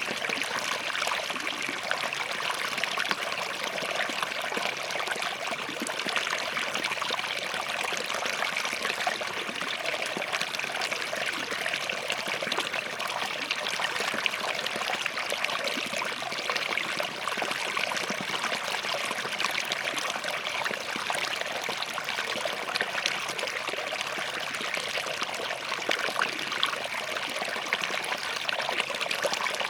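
Small forest stream running steadily over and between rocks, a continuous babble and trickle of water.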